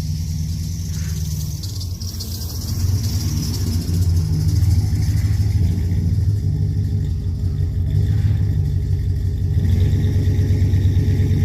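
An engine running steadily with a low, even rumble, getting a little louder about three seconds in.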